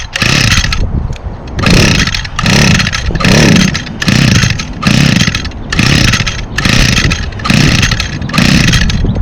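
Recoil starter rope of an Echo SRM2400 two-stroke string trimmer being yanked over and over, about one pull a second. Each pull gives a short rising-and-falling whir as the engine is spun over. The engine does not catch between pulls.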